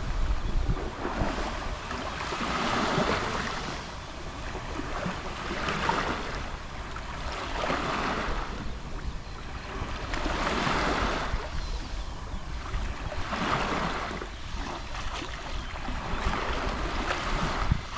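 Gentle Mediterranean sea waves lapping on a shore, each wash swelling and falling away every two to three seconds, with a low rumble of wind on the microphone underneath.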